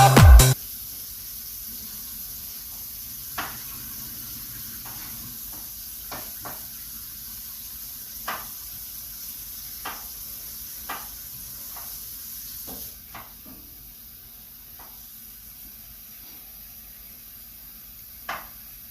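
Music cuts off about half a second in, leaving a steady hiss with a dozen or so faint, irregular clicks and ticks, one a little louder near the end.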